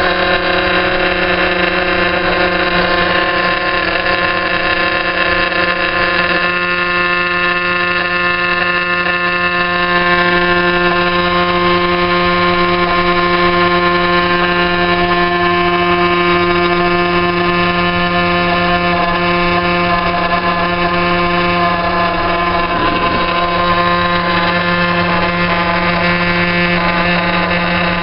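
Vaillant gas boiler giving off a loud, steady droning hum with many overtones. The owner cannot trace the noise to any single part, but it stops when the boiler's air inlet is adjusted.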